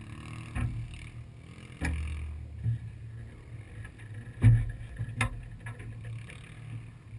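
The dune buggy's air-cooled 1835 cc VW flat-four engine idling steadily, with a few knocks and thumps on the car, the loudest about four and a half seconds in.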